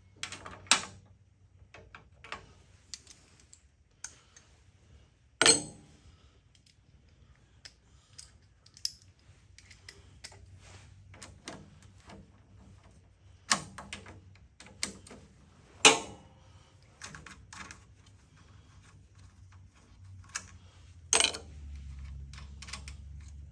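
Metal hand tools and carburetor fasteners clicking and clinking as the carburetor is unbolted from a small single-cylinder engine, with irregular sharp knocks. A low hum comes in near the end.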